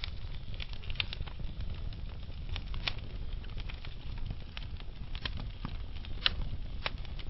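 Wood logs burning in a fireplace: irregular sharp crackles and pops over a steady low rumble of the fire, with the loudest pops about three and six seconds in.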